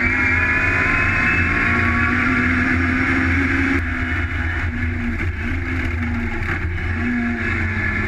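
Classic Mini racer's A-series engine heard from inside the cockpit at full load, its pitch rising for about four seconds before the revs drop suddenly, then running on at lower, uneven revs.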